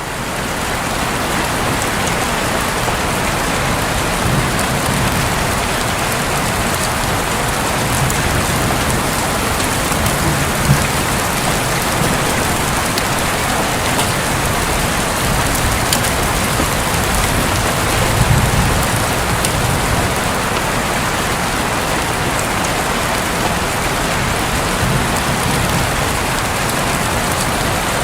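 Heavy rain falling steadily on a roof, with low rumbles of thunder swelling about ten seconds in and again past the middle.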